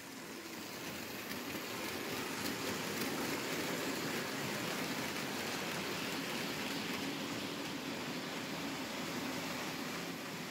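Märklin H0 model freight train running past on metal M-track: a steady rolling rattle of wheels on the rails and the locomotive's motor, growing louder over the first couple of seconds and easing slightly near the end.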